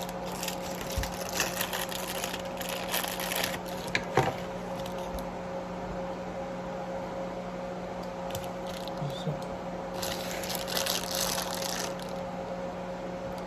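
LOL Pets toy packaging being handled and opened: bursts of crinkling and rustling in the first few seconds and again about ten seconds in, with a sharp click a little after four seconds, over a steady electrical hum.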